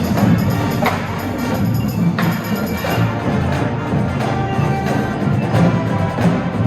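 Indoor marching band of winds and percussion playing a show piece, with sharp percussion hits cutting through now and then.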